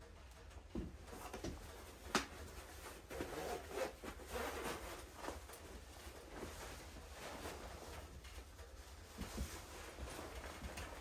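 Irregular rustling and light knocks, with one sharper knock about two seconds in, like things being handled in a small room.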